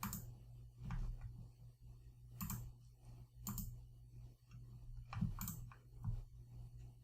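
Computer mouse clicking several times, sharp separate clicks spaced irregularly about a second apart, over a low steady electrical hum.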